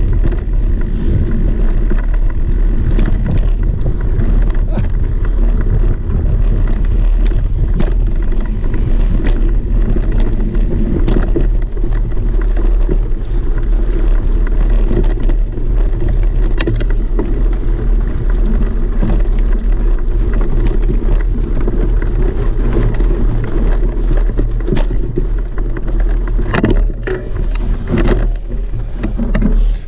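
Off-road vehicle's engine running with a steady low rumble, with scattered knocks and rattles.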